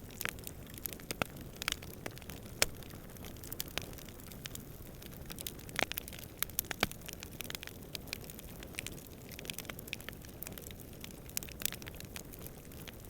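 Wood campfire crackling, with irregular sharp pops and snaps, a few louder ones about two and a half and six seconds in, over a steady low rush of distant wind.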